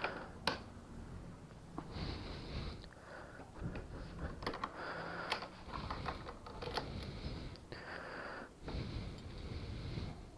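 Light metal clicks and scrapes of spanners working a seat bolt loose, irregularly spaced, with rustling handling noise in between.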